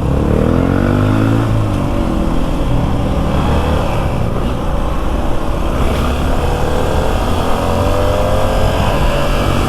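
Motorcycle engine pulling under throttle at low speed, its pitch rising as it accelerates near the start and again later, before levelling off.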